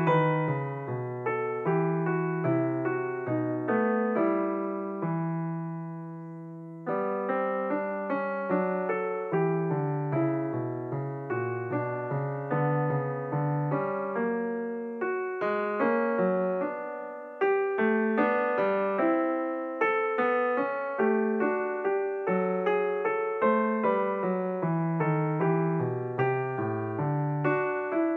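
Background piano music: a steady flow of notes and chords, with one chord held and fading about five seconds in before the playing picks up again.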